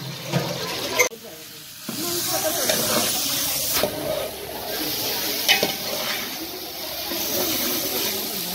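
Sliced onions sizzling as they fry in oil in a metal pot, stirred with a slotted metal spatula that scrapes and knocks against the pot a few times.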